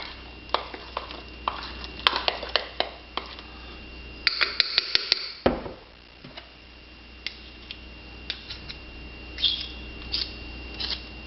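Spoon clinking and scraping against a mug while stirring thick cake batter, in irregular taps with a quick run of knocks about four seconds in.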